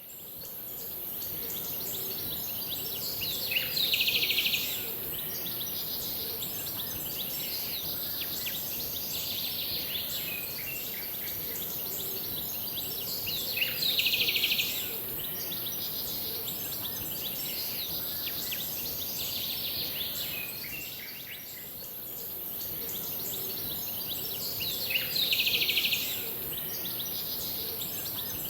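Forest ambience: birds chirping over a steady high hiss, with a louder burst of calls about every ten seconds.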